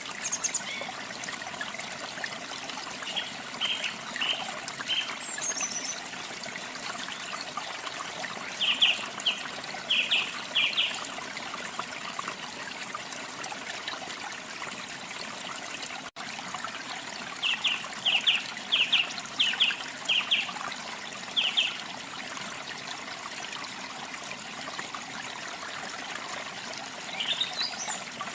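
Running water trickling steadily, with a small bird calling in short runs of quick repeated chirps, three or four bursts spread through.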